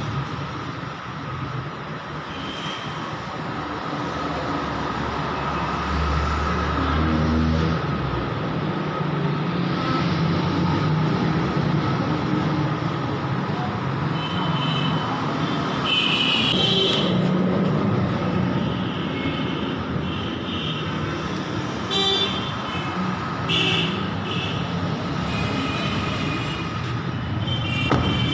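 Road traffic noise with several vehicle horns honking in short toots, more often in the second half.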